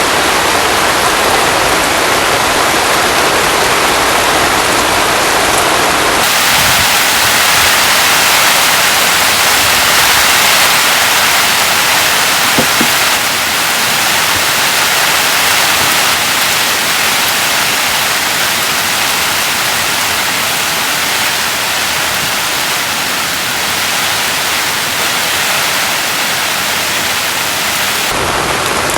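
Heavy rain pouring down, a loud, dense, steady hiss. Its character changes abruptly about six seconds in and again near the end.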